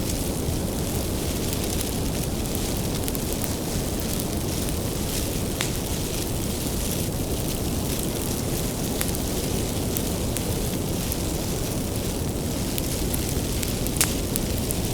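Wood fire burning with a steady low rumble and scattered sharp crackles and pops from the burning firewood, the loudest pop about 14 seconds in.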